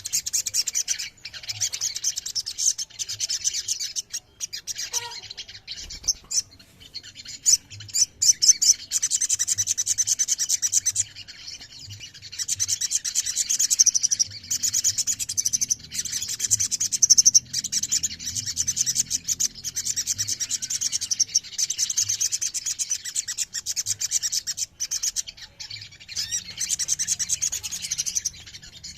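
Little spiderhunter singing: long runs of rapid, high-pitched chattering notes lasting several seconds each, broken by short pauses.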